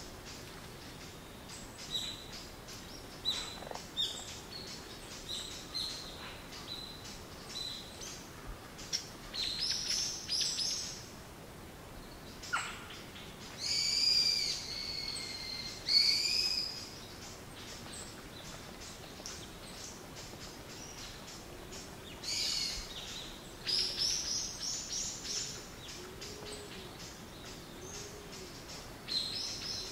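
Birdsong: scattered short chirps and longer whistled calls from several birds, with a low call repeated about once a second in the later part.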